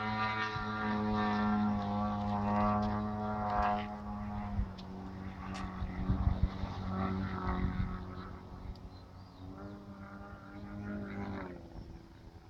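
Propeller aircraft engine droning steadily, dropping slightly in pitch about four and a half seconds in and fading away near the end.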